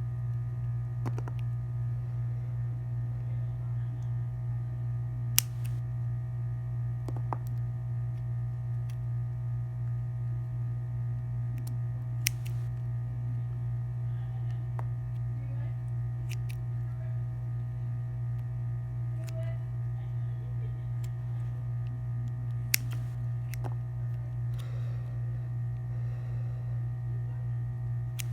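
Steady low electrical hum, with a few isolated sharp clicks or taps scattered through it.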